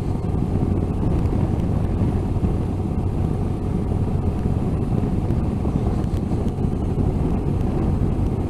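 Motorcycle riding at a steady road speed: a steady engine drone under wind noise on the microphone.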